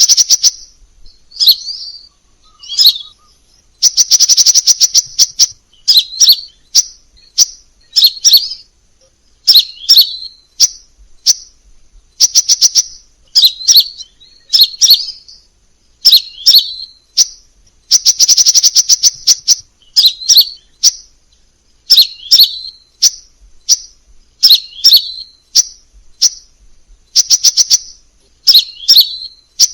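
Crimson sunbird calling: sharp, high chirps repeated about once a second, broken twice by a rapid ticking trill about a second long.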